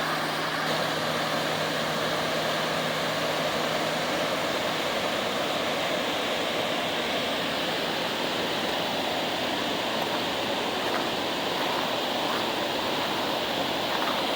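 Waterfall rushing: a steady, even roar of falling water. A faint low hum sits under it for the first few seconds.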